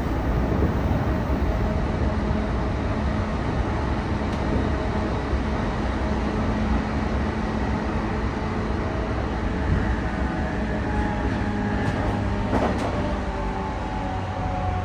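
Running noise heard inside a JR E233-1000 series electric commuter train car: a steady rumble of wheels on rail with a faint hum. After about twelve seconds come a couple of short clicks and several whining tones that fall in pitch, typical of the train's Mitsubishi IGBT-VVVF inverter-driven traction motors as the speed changes.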